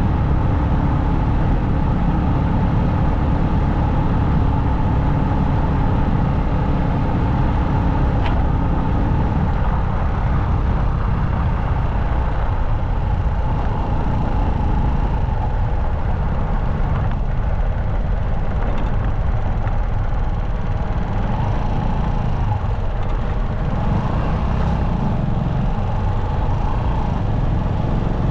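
Motorcycle riding at road speed: a steady rumble of engine, tyre and wind noise on the microphone, with a faint held engine tone.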